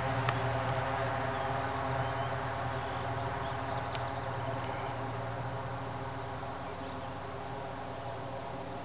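Cessna T206 single-engine propeller plane's engine and propeller drone after take-off, a steady hum that slowly fades as the plane flies away.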